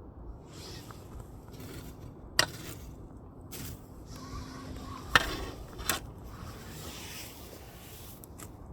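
Burning firewood crackling, with three sharp pops: one about two and a half seconds in and two close together after about five seconds.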